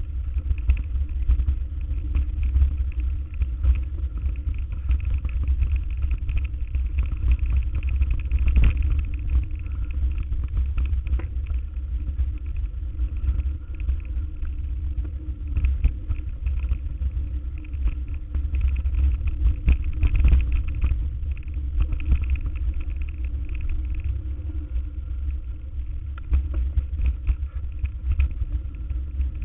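Motor vehicle driving, a steady low rumble with scattered short knocks and rattles.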